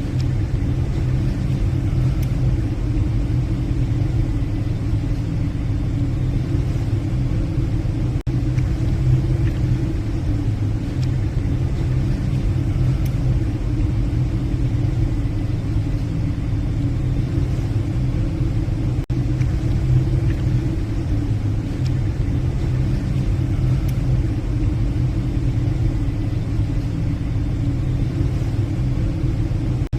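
Steady low rumble and drone of a passenger ship's engines under way, holding the same pitch throughout.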